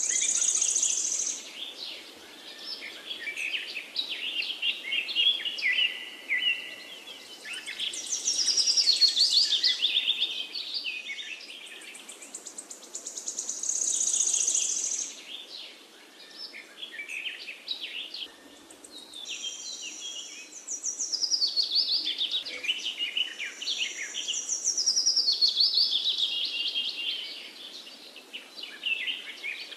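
Songbirds singing: bursts of high chirps and fast trills every few seconds, some runs sliding down in pitch.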